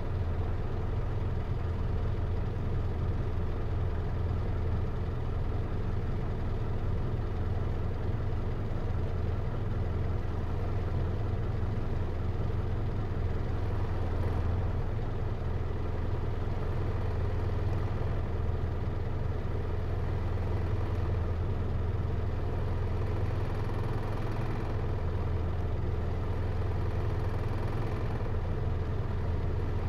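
Hino Liesse RX4JFEA microbus's J05C four-cylinder diesel engine, heard from inside the cabin, running steadily with no rise or fall in pitch.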